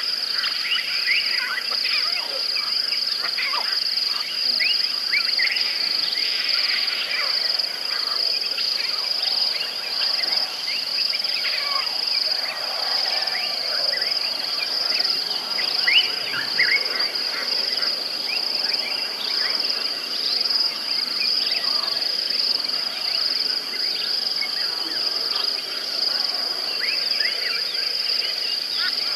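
Outdoor insect chorus, a steady high-pitched drone, with many short bird chirps and calls scattered over it.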